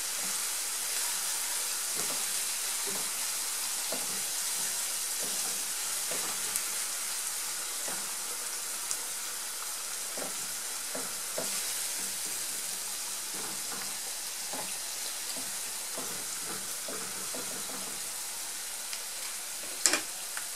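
Chopped onion, pepper and tomato paste sizzling in oil in a nonstick frying pan, stirred with a silicone spatula that scrapes through the mixture about once a second. A sharp knock near the end is the loudest sound.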